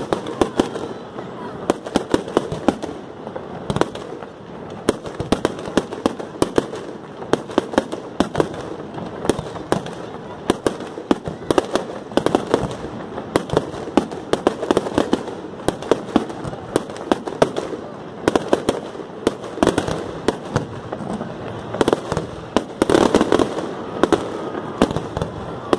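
Fireworks display in full swing: a dense, continuous barrage of sharp bangs and crackles, many per second, with no let-up.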